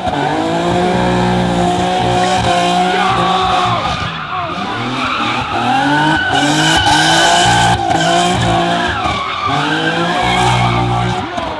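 Car engines held at high revs with tyres squealing, the sound of cars spinning donuts on pavement; the engine pitch shifts up and down as the revs change.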